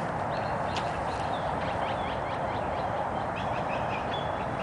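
Small birds chirping in quick scattered calls over a steady rushing noise.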